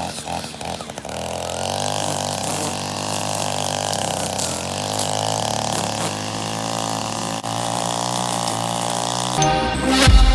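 An engine idling steadily with a slightly wavering pitch. Just before the end it gives way to electronic music.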